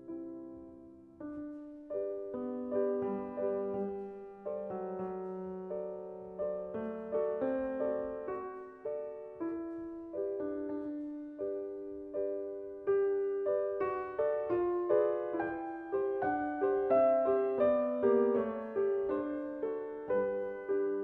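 Solo piano music: gentle notes played at an unhurried pace, each struck and fading away.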